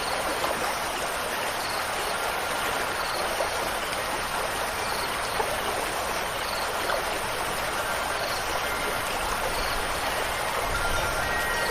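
Steady rush of running water. Faint ringing wind chime tones come in near the end.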